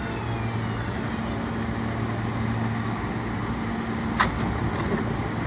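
An L subway train's traction motors whining down in several falling tones as it stops in the station, then a steady low hum from the standing train. A sharp click sounds about four seconds in.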